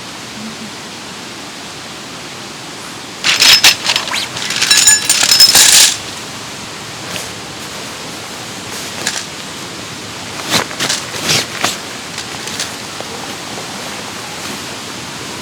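Steady rushing of a mountain valley stream. A loud run of clattering knocks, some with a metallic ring, comes about three seconds in and lasts nearly three seconds, followed by scattered lighter clicks.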